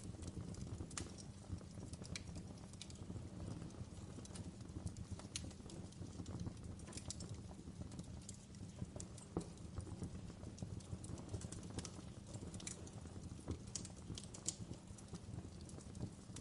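Wood fire burning in a fireplace: a steady low burning noise with small crackles and pops at irregular intervals throughout.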